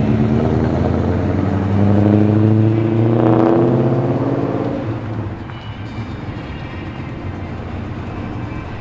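A car's engine running loud as the car drives off, rising a little in pitch about two to three seconds in, then fading after about five seconds as it moves away.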